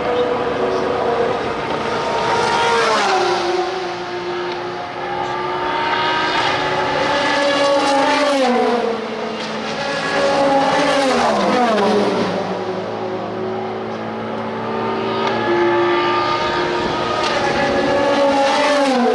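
IMSA sports-prototype and GT race cars passing at racing speed, one after another, their engines at high revs. Each engine note drops sharply in pitch as a car goes by, about four times, and several engines overlap with some cars accelerating in between.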